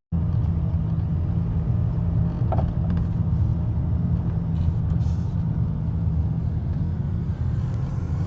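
A motor vehicle running with a steady low rumble that holds at an even level throughout, with a couple of faint ticks a few seconds in.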